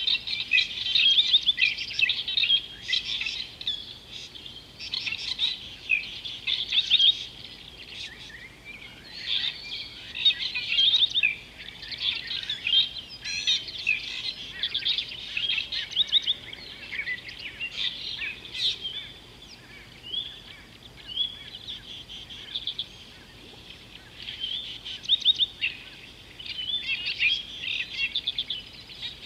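Several birds singing and chirping together in a busy chorus of quick, high chirps and trills. It is thickest near the start and again near the end, and thins out a little past the middle.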